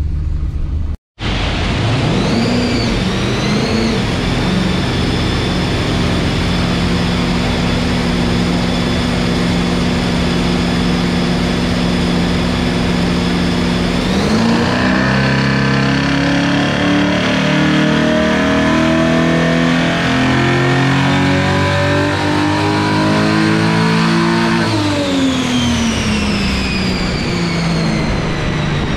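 Built 304 Holden V8 with a hydraulic flat-tappet cam running an LH Torana on a chassis dyno. It is held at steady revs with a high whine from the driveline and rollers, then about halfway in a full-throttle ramp run of about ten seconds with the revs climbing steadily. It then comes off the throttle and winds down.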